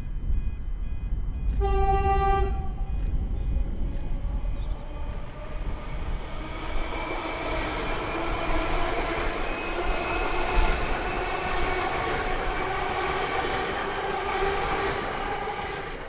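Suburban electric multiple-unit train sounding one horn blast of about a second as it approaches, then passing close by with a steady whine over the rushing wheel noise, fading out at the end.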